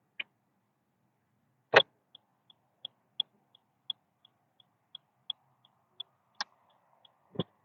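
A car's turn-signal indicator ticking steadily, about three clicks a second, starting about two seconds in. A few louder single knocks come in between, the loudest about two seconds in, over a faint steady hum.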